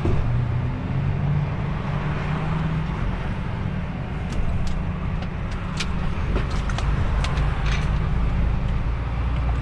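DAF XF truck's diesel engine running in slow traffic, heard from inside the cab, with its low drone shifting in pitch and steady road noise. A few light clicks come through in the middle.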